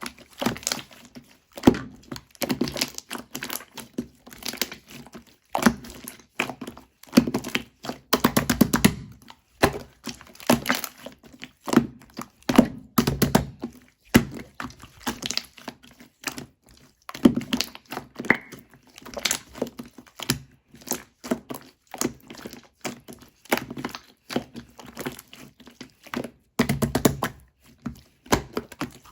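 Chewy, sticky slime being kneaded and pressed by hand: an irregular run of squishes, sharp clicking pops and snaps, several a second.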